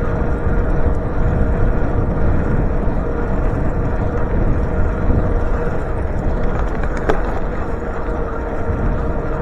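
Wind buffeting the microphone while riding an electric bike, with a faint steady whine under it. A single sharp click about seven seconds in.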